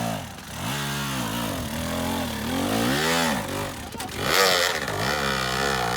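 Dirt bike engine revved in repeated bursts, its pitch rising and falling about once a second, with the strongest rev a little past the middle, as the rider works the throttle to get the bike moving.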